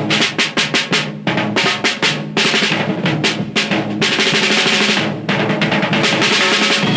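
Music: a drum break of rapid snare and bass drum strokes, running into a sustained drum roll about two and a half seconds in, then more quick strokes.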